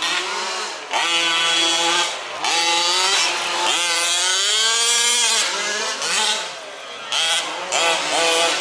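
Small two-stroke petrol engines of 1/5-scale off-road RC trucks racing, revving up and down again and again as they run around the track, dropping away briefly twice.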